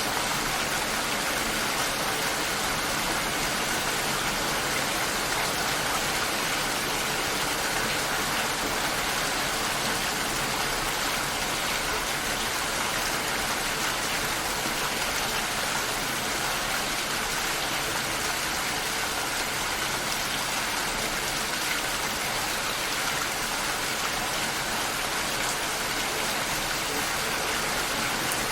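Steady rain shower falling, an even hiss of raindrops that holds at the same level throughout.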